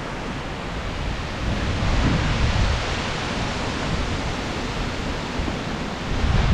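Strong gusty wind in a storm: a low buffeting rumble of wind on the microphone under a rushing hiss of wind through trees, swelling about two seconds in and easing off toward the end.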